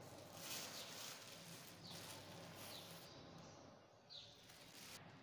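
Near silence with a faint background haze, and a small bird chirping twice, short falling high notes about two seconds apart.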